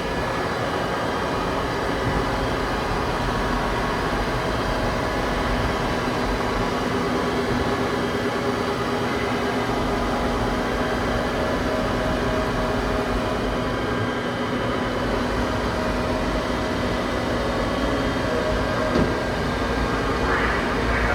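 Steady mechanical hum of running industrial machinery, several steady tones over an even noise. A single short knock about 19 seconds in.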